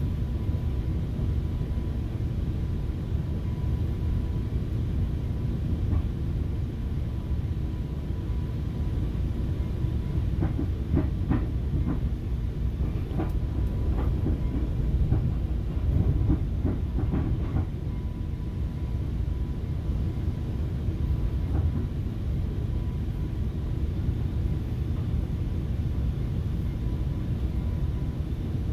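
FrontRunner commuter train in motion heard from inside a passenger car: a steady low rumble, with a run of clicks and knocks from the wheels over the track between about 10 and 18 seconds in.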